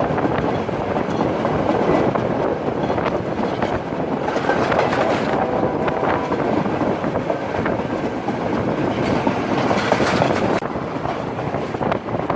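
Express train running along the line: steady rushing noise of the carriages with wheels clattering over the rails.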